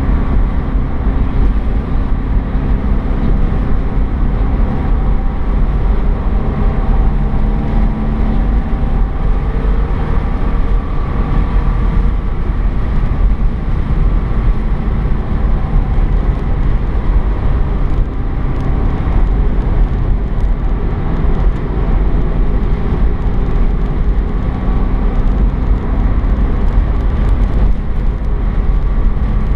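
Porsche 987 Boxster S's flat-six engine running under way, heard on board over a heavy, steady rumble of road and wind noise; the engine note drifts up and down a little as the revs change.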